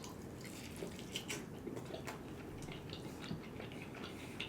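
Quiet chewing: scattered soft, wet mouth clicks and smacks.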